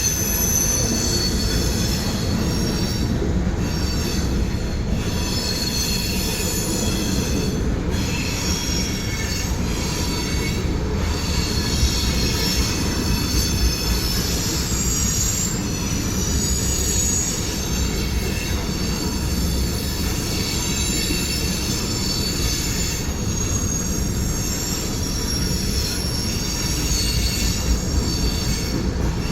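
Freight train cars rolling past steadily, with a continuous low rumble and several high-pitched wheel squeals that waver in pitch throughout.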